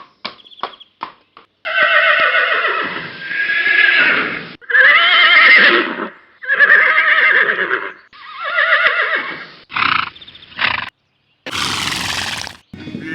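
Horses neighing: a string of separate whinnies, each a wavering call of one to three seconds, after a few short knocks at the start. A short rush of noise comes near the end.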